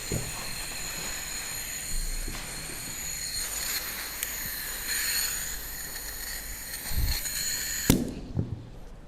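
A motorised tool whining steadily at a high pitch, cut off abruptly with a sharp click about eight seconds in, followed by a few knocks.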